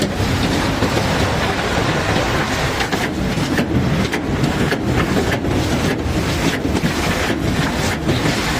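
Steady, loud mechanical rumble of heavy unloading machinery working a barge's load of cobblestones, with a faint regular pulse a little under twice a second.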